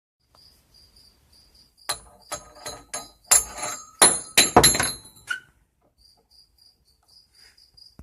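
A cluster of sharp metal clanks and knocks with a ringing edge, about a dozen over three seconds, from drive shaft parts and tools being handled. Under it a cricket chirps steadily.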